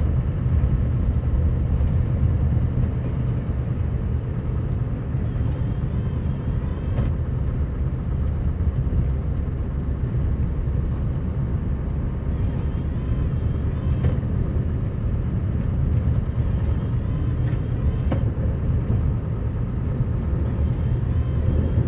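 Scania R560 truck's V8 diesel engine running, a steady low rumble.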